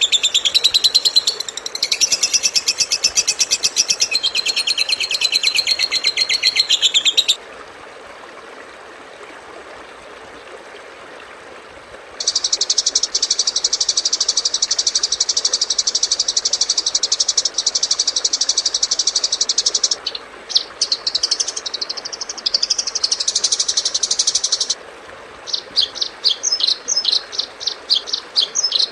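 Recorded songbird song from a masteran tutor track for caged songbirds, spliced together. A fast, harsh, high trill stops abruptly, and a few seconds of faint hiss follow. Then a long, steady, buzzing trill, a stretch of varied chirps and whistles sliding in pitch, and a rapid series of short, sharp chirps near the end.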